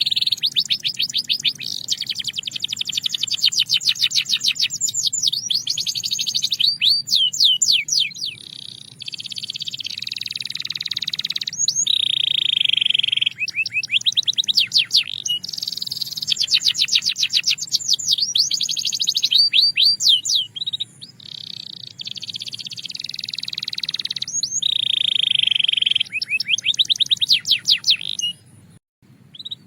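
Belgian canary singing a long, continuous song of rapid trills and rolls: fast runs of repeated high notes alternate with steadier, buzzier rolled phrases, separated by short pauses, with a brief break near the end.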